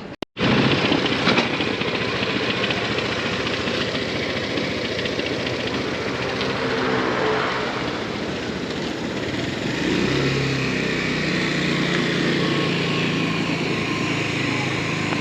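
Motorbike engine running while riding, under a steady rush of noise. The engine note shifts about halfway through and settles into a steadier tone near the end.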